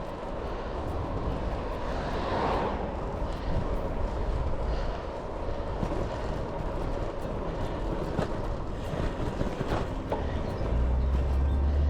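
Wind and road noise on an action camera while riding a road bike, with a louder swell about two seconds in. Near the end a deep steady hum comes in.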